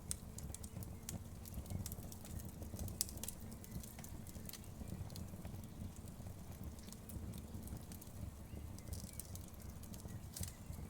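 Wood fire crackling in a fireplace: irregular sharp pops and crackles, the loudest about three seconds in, over a steady low rumble of the flames.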